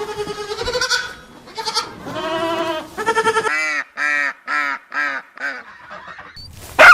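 Animal calls: a few longer pitched calls, then a quick run of about six short, evenly spaced calls, roughly three a second. A loud sudden sound comes near the end.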